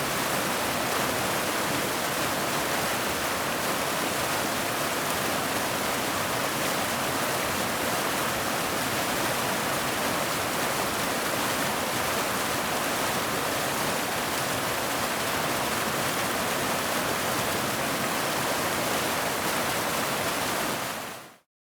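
Waterfall: a steady, even rush of falling water that fades out quickly near the end.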